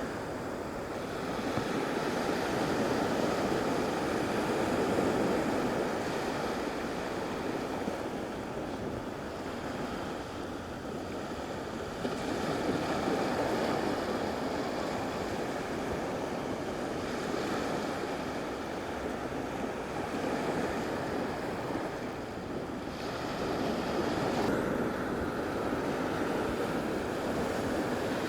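Gulf of Mexico surf washing onto a sandy beach, swelling and fading every several seconds.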